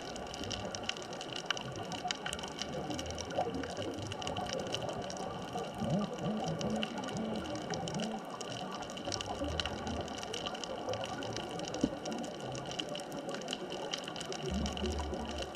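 Underwater ambience on a reef: a steady hiss scattered with many small clicks and crackles, and a brief low gurgling about six seconds in.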